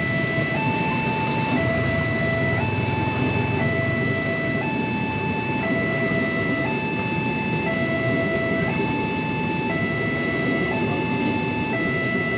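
Railway level-crossing warning alarm sounding an electronic two-tone signal, stepping between a lower and a higher tone about once a second, which signals that a train is approaching. Underneath it runs a steady low rumble.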